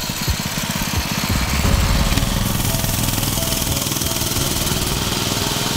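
Gas mini bike's small single-cylinder engine running steadily under way as it is ridden along a road, a rapid even firing.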